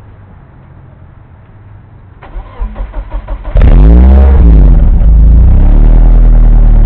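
BMW engine cold-started after sitting overnight at about freezing: the starter cranks for about a second, then the engine catches suddenly about three and a half seconds in, flares up in revs and falls back, and settles into a steady idle.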